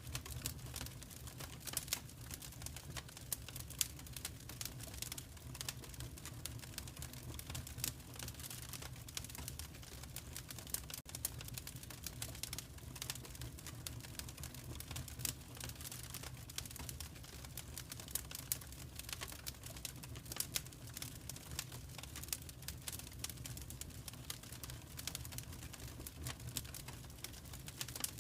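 Wood fire crackling in a fireplace: dense, irregular small pops and crackles over a steady low rumble.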